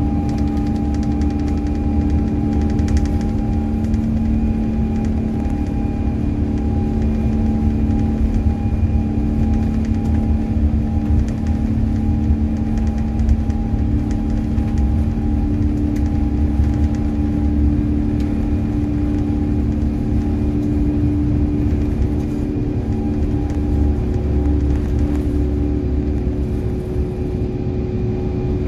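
Steady cabin noise inside an Airbus A350-900 in flight: a deep, even rumble from its Rolls-Royce Trent XWB engines and the air rushing past, with several steady hums running through it.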